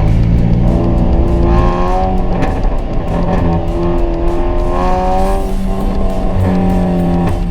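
Modified Hyundai i20's aftermarket exhaust running while the car is driven, mixed with music in which a guitar carries a melody.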